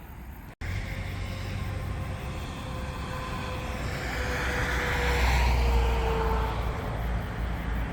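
A passing vehicle over a steady low rumble: a faint engine tone slowly falls in pitch while the noise swells to a peak about five seconds in.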